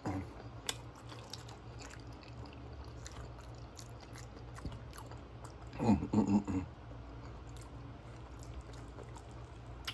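Close-up chewing of a toasted grilled cheese sandwich, with wet mouth clicks. About six seconds in there is a brief voiced hum, and a steady low hum sits underneath.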